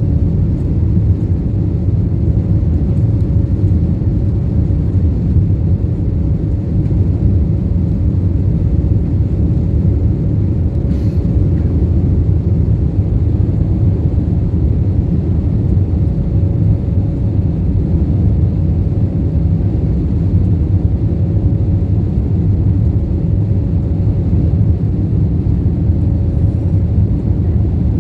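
Jet airliner cabin noise after takeoff: the engines and rushing air make a steady low rumble, with a faint steady hum above it.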